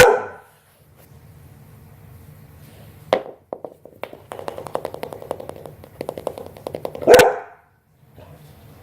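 Young Bernese Mountain Dog barking in play: a loud bark at the start, a shorter one about three seconds in, and another loud bark about seven seconds in. Between the barks there is a run of quick clicking and scuffling.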